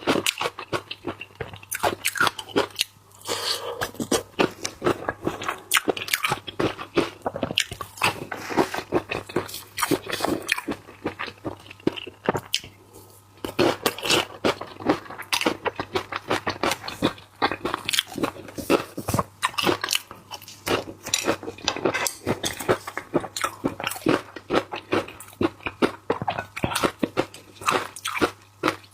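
Close-up crunching and chewing of shrimp: many crisp bites and chews in quick succession, with two short pauses.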